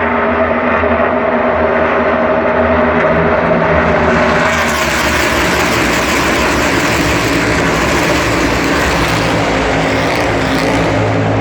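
NASCAR Cup Series cars' V8 engines running flat out past the track, several engine notes overlapping. The sound swells and turns brighter from about four seconds in as cars pass close, then eases off near the end.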